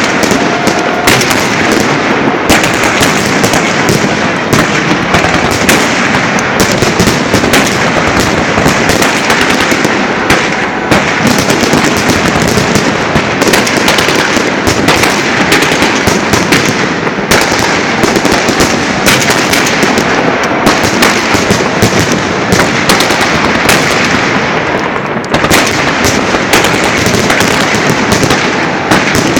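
Fireworks salute launchers firing a dense, continuous barrage: rapid overlapping bangs and crackling with no break.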